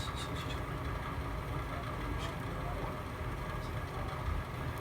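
Log fire burning in a fireplace: a steady low rumble of flame with a few sharp crackles, a quick cluster at the start and single pops about two and three and a half seconds in.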